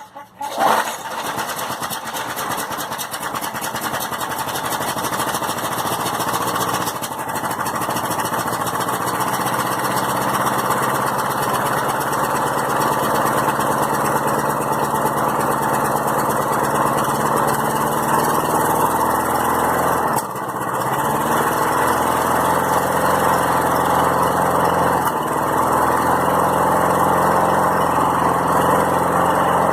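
Small lawn mower engine catching right after a pull and running on, its speed wavering; about twenty seconds in it stumbles and nearly dies, then picks back up. It has trouble staying running, which the owner puts down to the Seafoam added to the fuel.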